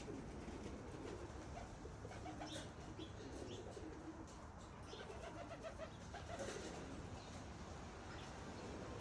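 Pigeons cooing, with a few short chirps from small birds.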